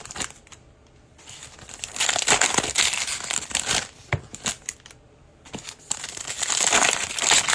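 Plastic wrappers of trading card packs crinkling and tearing as the packs are opened by hand. It comes in two spells with short quiet gaps between.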